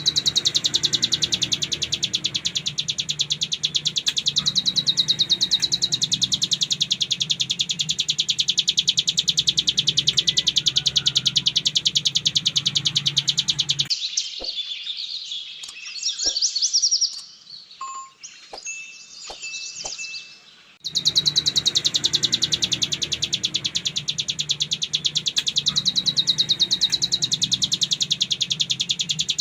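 Ciblek gunung (a prinia) singing its 'ngebren' song: a very rapid, continuous high-pitched buzzing trill of closely packed notes, over a steady low hum. About fourteen seconds in, the trill breaks off for about seven seconds, leaving only scattered chirps, short whistles and clicks, then resumes.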